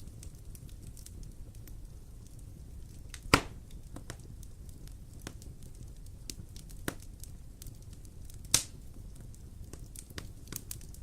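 Wood fire burning in a fireplace: a steady low rumble of the flames with scattered small crackles, and two loud sharp pops, about three seconds in and again near the middle of the second half.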